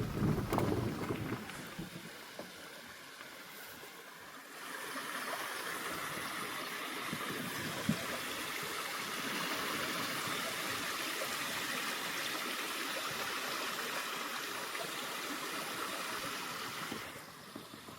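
Steady rushing of a small forest stream, coming in abruptly a few seconds in and cutting off shortly before the end. A brief low rumble sounds at the very start.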